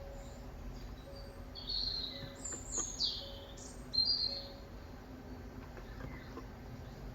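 A bird singing a short burst of high chirps and falling whistled notes, from about a second and a half in to about four and a half seconds.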